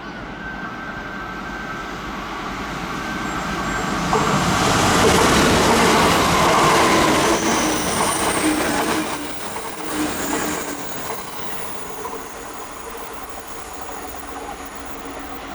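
Kintetsu electric train passing by, growing louder to a peak about five to seven seconds in and then fading away, with thin squealing tones from the wheels near the peak.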